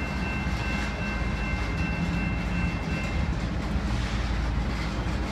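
Union Pacific freight train rolling along street-running track: a steady rumble. A steady high-pitched tone sounds over it and stops about three seconds in.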